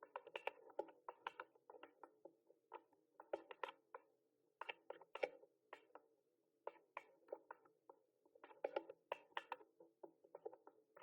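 Typing on a mechanical keyboard: quick runs of short, sharp key clicks with brief pauses between bursts.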